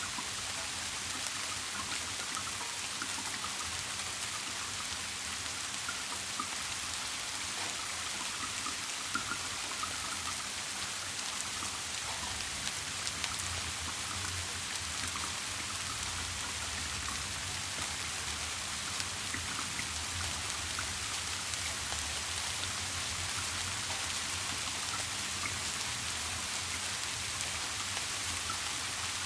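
Steady rain, an even hiss dotted with many small drop ticks. A faint low rumble underneath grows stronger about twelve seconds in.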